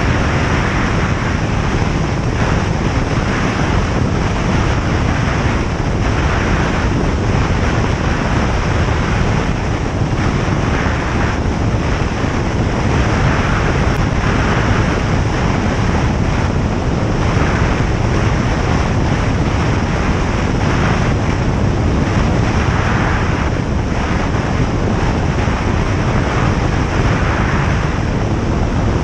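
Single-engine light aircraft in flight: the steady drone of its engine and propeller mixed with the rush of airflow, with slow, uneven swells in the hiss.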